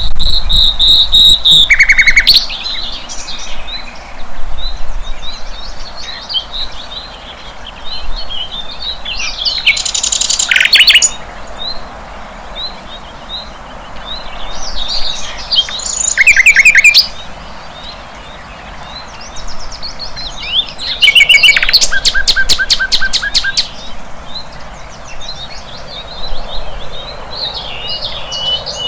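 Sikatan londo flycatcher singing: softer, varied high twittering is broken about every six seconds by loud bursts of very rapid, trilled notes.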